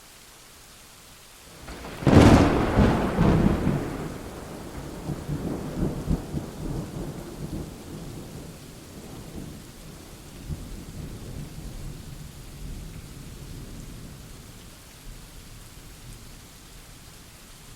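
Thunderstorm: steady rain, then about two seconds in a sharp thunderclap that rumbles on and dies away over the next ten seconds or so.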